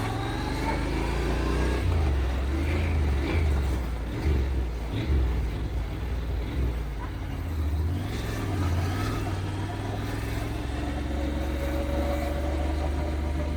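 Motorcycle engine running while riding, its pitch rising and falling slowly with speed, over a continuous heavy low rumble.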